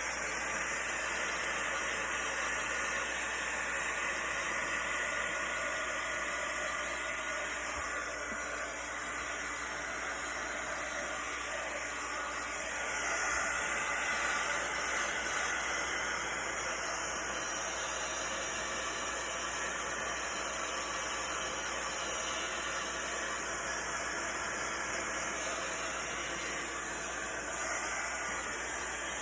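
Heat gun blowing steadily over an acrylic pour, a constant rush of air with a slight swell about halfway through.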